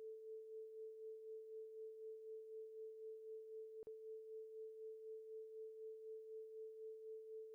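Faint synthesized pure tone held at one steady mid pitch, pulsing gently about four times a second, with a tiny click about four seconds in. It is the electronic thinking-time tone that fills the pause while a quiz puzzle is being solved.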